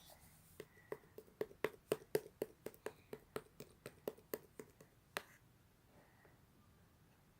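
Mixed slime being squeezed and kneaded by hand, giving a quick run of sharp little pops and clicks, about four or five a second, that stops a little after five seconds in.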